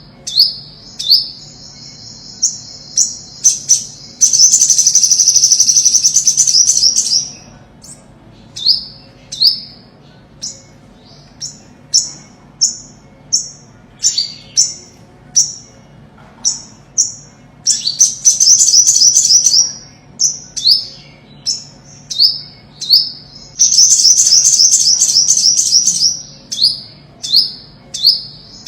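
Olive-backed (ornate) sunbird singing: a run of short, sharp high notes, each sliding down, broken three times by a fast buzzy trill of two to three seconds, about four seconds in, midway and near the end.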